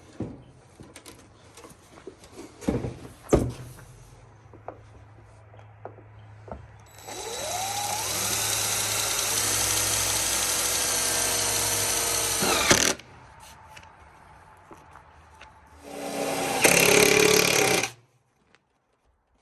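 Power drill driving self-tapping screws through PVC pipe: a few knocks of handling, then the motor whines up and runs steadily for about six seconds, and a second shorter run of about two seconds follows near the end.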